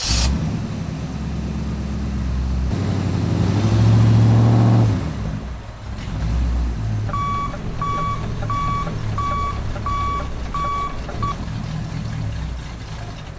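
Vehicle engine running, revving up for a couple of seconds near the start, then a reversing alarm beeps seven times, about one and a half beeps a second, while the engine keeps running.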